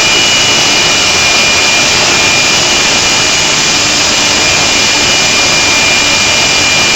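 A drag race car's engine running steadily and very loud: an even rushing noise with a steady high whine, with no revving or change in pitch.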